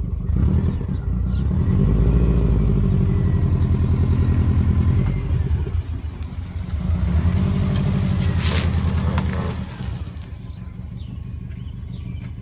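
2002 Subaru WRX's turbocharged 2.0-litre flat-four, running through a catless downpipe and single-resonator exhaust, pulling away under throttle in two loud surges. The second surge ends about ten seconds in, and the engine drops to a quieter, steady note.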